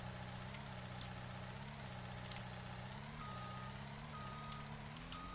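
Vehicle engine running steadily, its pitch rising and falling slightly. From about three seconds in, short electronic beeps come roughly once a second, and a few sharp clicks are scattered through.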